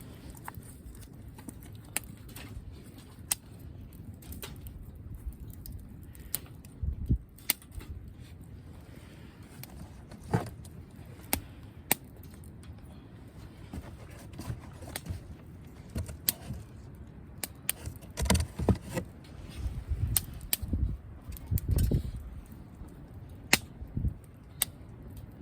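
Wood campfire crackling: burning firewood giving off sharp, irregular pops and snaps, with a few dull low thumps, most of them in the second half.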